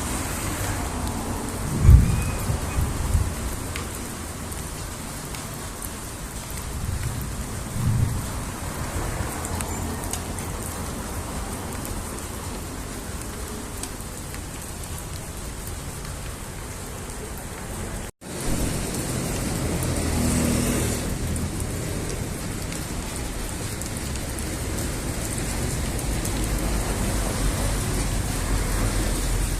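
Steady rain shower with an electric storm, low thunder coming in suddenly about two seconds in and again around eight seconds. The sound cuts out for an instant a little past halfway.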